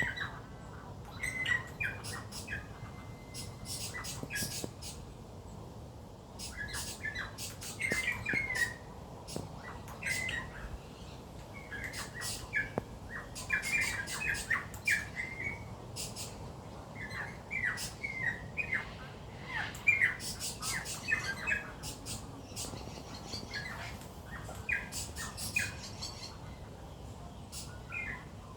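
Birds calling: short chirps and squawks in quick runs, with brief pauses between the runs.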